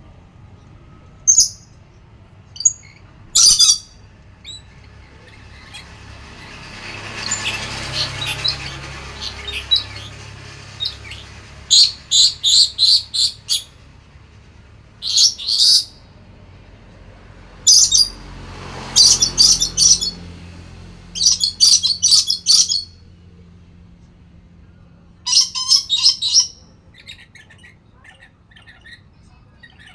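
A lory (nuri parrot) giving loud, shrill calls in short bursts every few seconds, some as quick runs of several notes. A faint background rush swells and fades twice.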